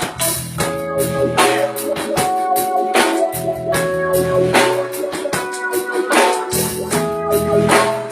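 A small band playing: held organ-like keyboard chords over an electric bass line, with a drum kit keeping a steady beat.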